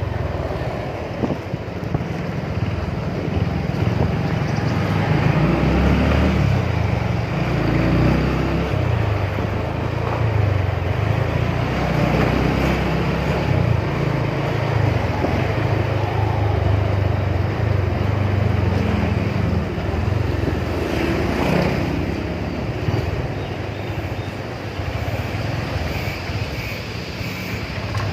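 Motorcycle engine running while riding, a steady low drone that rises and falls a little, with wind and road noise over it.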